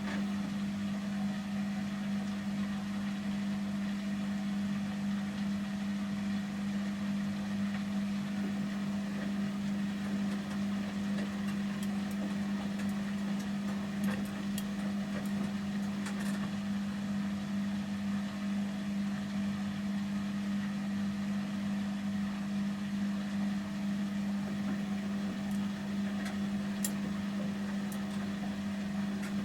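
Samsung Series 5+ washing machine in its final spin at 800 rpm, the drum turning at a constant speed with a steady motor hum.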